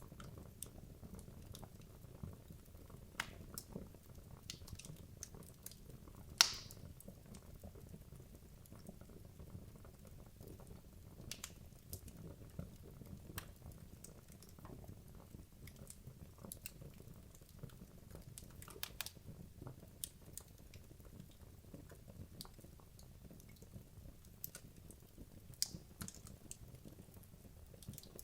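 Wood logs burning in a fireplace: a low steady rush of flame with scattered crackles and small pops, and one sharper, louder pop about six seconds in.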